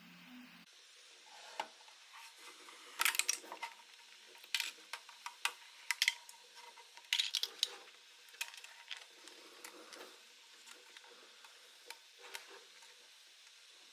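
Small hard 3D-printed plastic parts being handled and fitted together: an irregular run of sharp clicks, taps and light clatters, a few of them louder, in short clusters through the middle.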